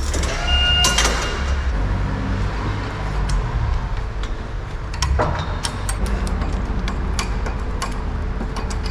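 Scattered clicks and knocks over a steady low rumble, with a brief ringing tone in the first second and a louder knock about five seconds in.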